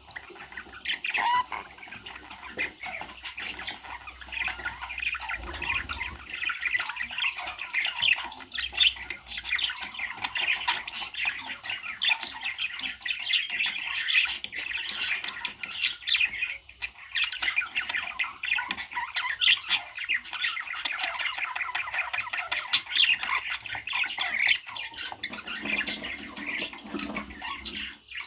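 Parrot chattering and squawking without a break, a dense run of rapid short calls.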